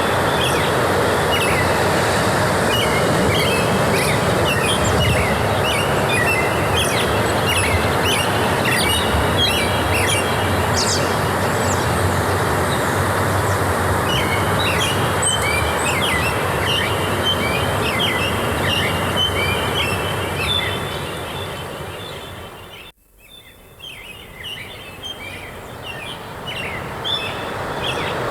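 Many small birds chirping and twittering over a steady rushing noise. About 23 seconds in, everything fades down to a brief near-silence and then fades back up.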